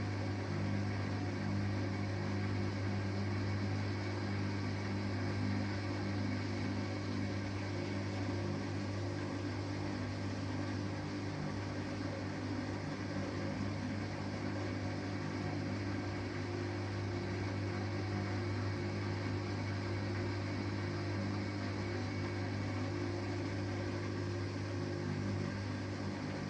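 Samsung Eco Bubble washing machine with an inverter motor, running steadily: a constant low hum with no pauses or changes.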